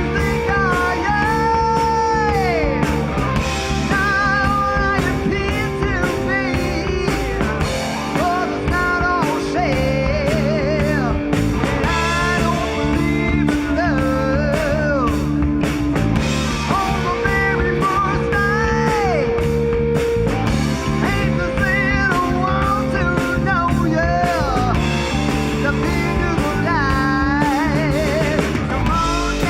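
A rock band playing live: a lead line of bent, wavering notes over steady bass and drums.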